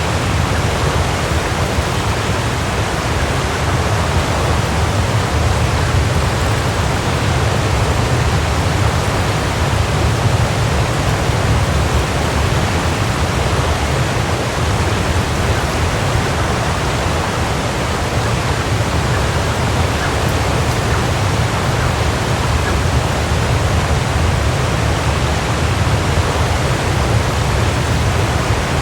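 Waterfall: water falling and crashing in a steady, full rush, deepest in the low end.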